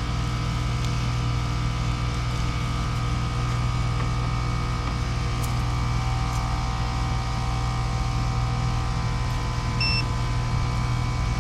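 Outdoor air-conditioner condensing unit running in cooling: a steady compressor hum with the condenser fan blowing air. A short electronic beep sounds near the end.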